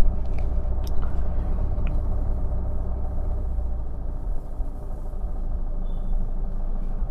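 Car engine idling, heard as a steady low hum inside the closed cabin.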